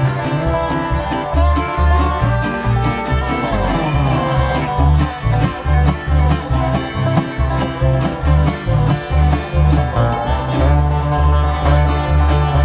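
A band playing a country-style song live: plucked strings over a steady, regular bass beat.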